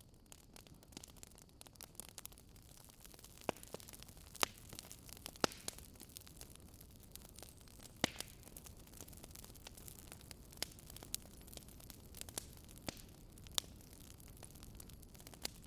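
Wood campfire crackling, with irregular sharp pops and snaps, a few louder than the rest, over a faint steady hiss.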